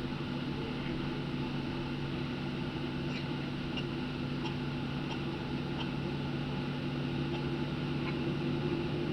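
Boeing 737-800 cabin noise during taxi-in: a steady drone of the engines at idle and the air conditioning, with a low hum. A few faint light clicks come in the middle.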